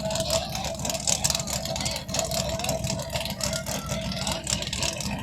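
Mud-bog vehicle engine running steadily, with a thin steady whine over the rumble.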